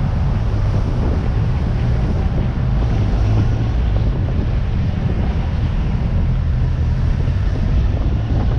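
Wind buffeting the microphone of a motorcycle rider on the move, a steady rumbling rush, with the motorcycle engine running underneath.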